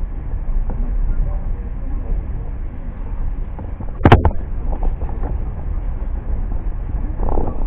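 Train running with a steady low rumble, and a single sharp bang about four seconds in.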